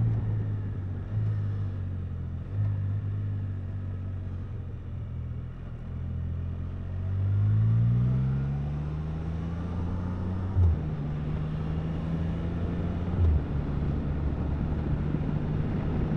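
Can-Am Spyder three-wheeled motorcycle engine running at low speed, then rising in pitch as it accelerates about seven seconds in and settling into a steady cruise. Two short knocks come in the second half.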